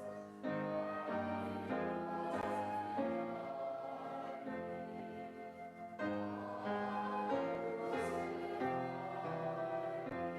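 Slow church music: voices singing with keyboard accompaniment, in held chords that change about once a second.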